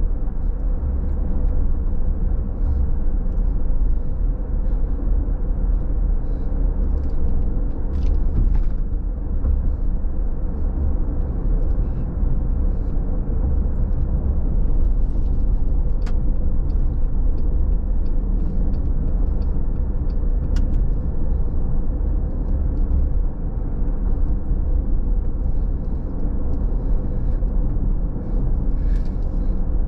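Car driving on a wet road, heard from inside the cabin: a steady low rumble of road and tyre noise, with scattered faint ticks.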